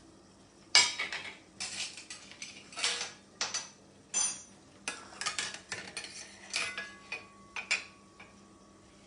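Kitchen dishes and utensils clattering as they are handled and set down: a string of irregular clinks and knocks spread over several seconds, over a faint steady hum.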